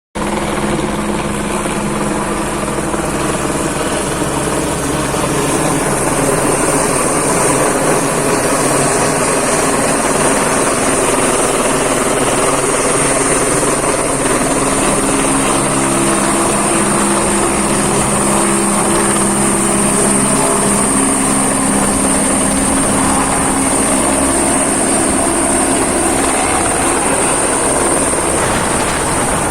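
Helicopter running steadily and loudly, a continuous rotor and engine noise with a steady high-pitched whine over it.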